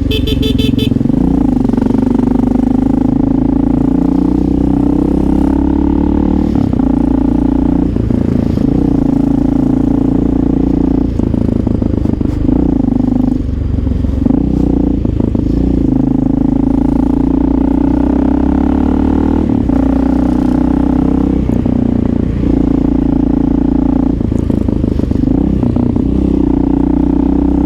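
Honda XR650L single-cylinder engine with an aftermarket Lexx exhaust running as the bike is ridden, its steady purring note rising and falling with throttle and gear changes.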